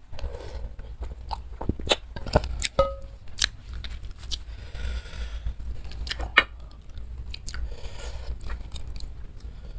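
Close-up mouth sounds of a person chewing a mouthful of instant noodles in soup: wet smacking and sharp clicking, busiest in the first few seconds and again about six seconds in.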